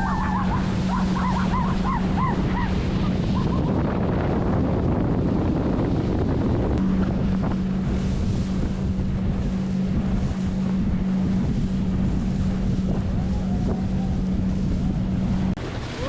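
Motorboat engine running with a steady low drone over heavy wind buffeting on the microphone and rushing water; the drone drops out for a few seconds around a third of the way in. Brief high wavering voices in the first few seconds.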